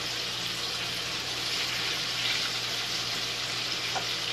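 Breaded patties shallow-frying in hot oil in a skillet, giving a steady sizzling hiss.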